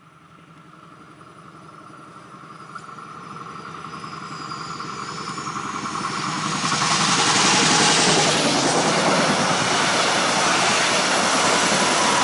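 Double-deck regional push-pull train on an electrified line approaching and passing close by. Wheel-on-rail noise grows steadily louder over about seven seconds, with a thin steady whine, and becomes a loud, even rushing rumble as the coaches go past. The electric locomotive pushing at the rear reaches the spot near the end.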